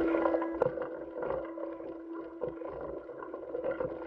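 The background noise on NASA spacewalk footage: a steady hum with one held tone, scattered crackles and clicks over it. The tone drops out for about a second near the end.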